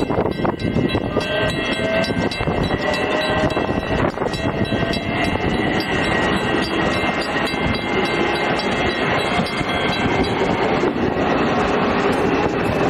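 Electric commuter train running on the rails: a steady, loud rumble of wheels on track with thin, steady high tones over it.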